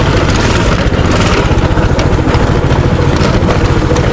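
Minibike's small engine running steadily, loud and unbroken, under way on a ride.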